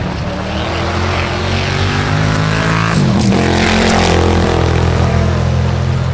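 A car's engine passing at speed on a track, getting louder as it approaches, its note dropping as it goes by about three seconds in.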